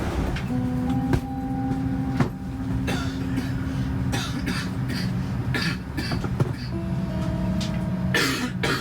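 Steady low hum of an airliner cabin before departure, with soft music of held notes and a few light clicks. A short noisy burst about eight seconds in.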